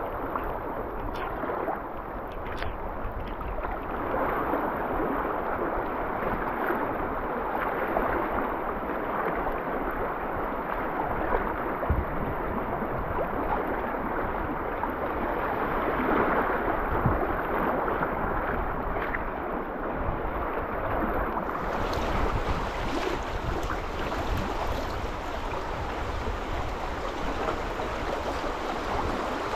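River water rushing and rippling steadily around a kayak drifting downstream. The sound turns brighter and hissier about three-quarters of the way through.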